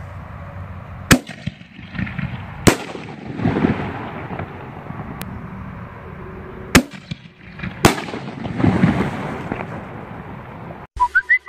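Full Metal Jacket mini artillery shells firing: four sharp bangs in two pairs, each pair a second or two apart, the reports of shells lifting and breaking. Each pair is followed by an echoing rumble, over steady wind noise.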